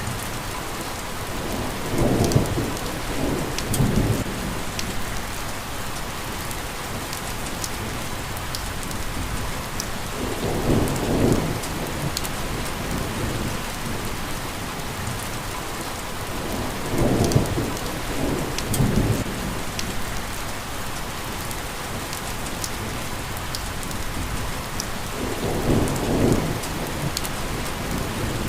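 Steady rain hissing, with four low rumbles of thunder, each lasting a second or two, rolling in about every seven to eight seconds.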